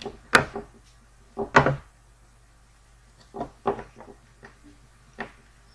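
Sharp, irregular clicks and knocks of plastic drone parts and a small screwdriver being handled while a landing skid is fitted and a screw set, about half a dozen in all, the loudest two near the start and about a second and a half in.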